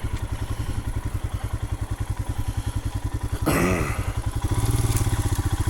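2020 Royal Enfield Himalayan's 411 cc single-cylinder engine running at low revs with an even, steady pulse. About three and a half seconds in there is a short louder burst, and the engine note is a little louder after it.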